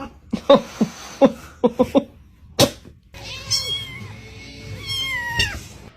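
A cat meowing: a quick run of short, sharp sounds in the first half, then two longer drawn-out meows that bend in pitch.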